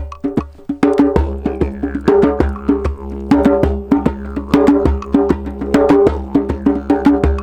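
Live sound-therapy music: quick, rhythmic strikes on a pitched percussion instrument, several a second, over a steady low drone that comes in about a second in.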